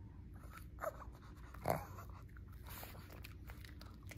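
Shih Tzu biting and crunching small pieces of a crumbly dog treat, with faint scattered crunching clicks. There are two brief sounds from the dog, a short falling whine-like note about a second in and a louder short huff a little later.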